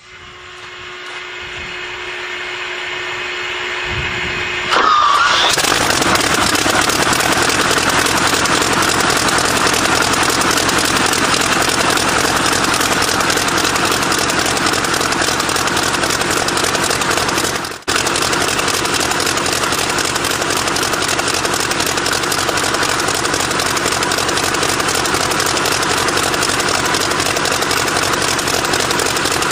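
Rolls-Royce Griffon Mk58 V12 aero engine being started after some 30 years standing: a steady whine grows louder for about five seconds, then the engine fires and runs steadily and loudly, with a momentary drop-out about 18 seconds in.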